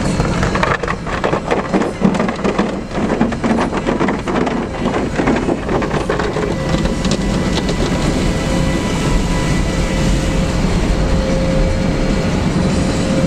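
Automatic car wash spraying water over a car, heard from inside the cabin: a dense patter and splash of water on the body for the first several seconds, then a steadier rush with a faint hum. A broken side window lets water drip into the car.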